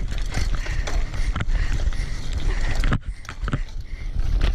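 Mountain bike rattling and knocking as it rides over a bumpy dirt trail, with a low rumble of wind on the microphone. The clatter drops off suddenly about three seconds in, then picks up again near the end.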